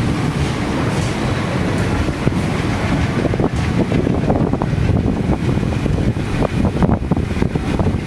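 Passenger train running along the track: a steady rumble with rattling and clicking from the wheels and carriage, the clicks coming thicker after a few seconds.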